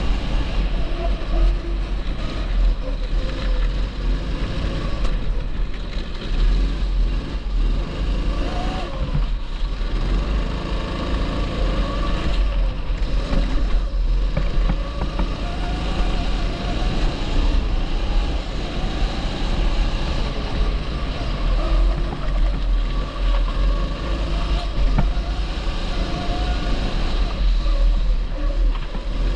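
A TB rental kart's 270 cc four-stroke engine running on track, its pitch rising and falling continuously as the throttle is worked, over a heavy low rumble.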